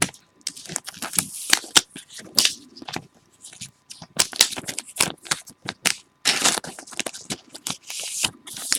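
Trading cards and their plastic and foil packaging being handled: an irregular run of crinkles, rustles, slides and small clicks.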